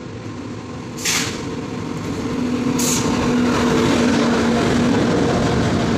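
Indian Railways WAP-7 electric locomotive hauling an express train past at speed. Its rumble grows louder as it approaches, then a steady hum sounds as the locomotive goes by, with two brief hissing bursts about one and three seconds in.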